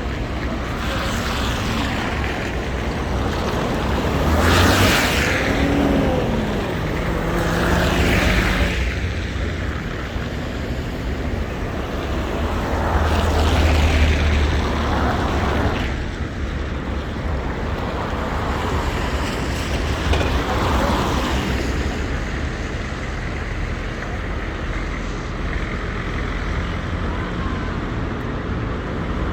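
City street traffic on wet roads: several vehicles pass, each swelling up with a hiss of tyres on the wet surface, over a steady background noise.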